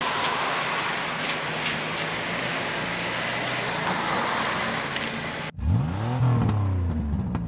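A 2020 Hyundai Tucson idling under a steady broad hiss. About five and a half seconds in, this cuts off abruptly to a car-revving sound effect that swoops up in pitch and falls back down; the rev is the loudest part.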